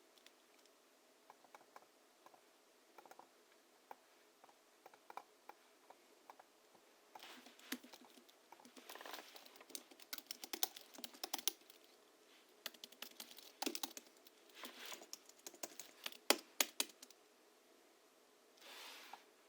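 Typing on a Hansung GHL-5X keyboard whose springs are lubricated with Krytox 103 and 107 and fitted with 50 g rubber domes. A few scattered keystrokes, then quick runs of typing from about seven seconds in, and a short soft rustle near the end.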